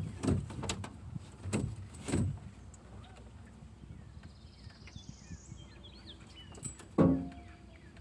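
A few dull knocks and thumps in the first two seconds and one sharp, louder knock about seven seconds in, with small birds chirping faintly in between.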